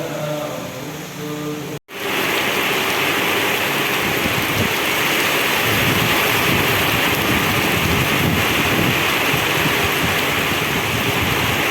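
Heavy rain pouring down steadily in strong wind, with irregular low buffeting underneath. It begins after a cut about two seconds in; before that there is a short stretch of singing.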